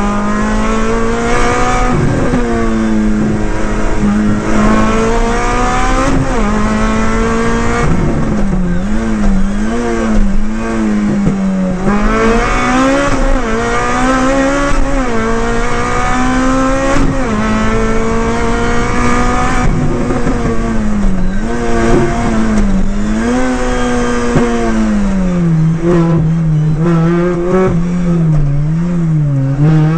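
Rally car engine heard from inside the cockpit, driven hard on a stage. The pitch climbs under acceleration and drops again at gear changes and lifts, over a steady bed of road and tyre noise.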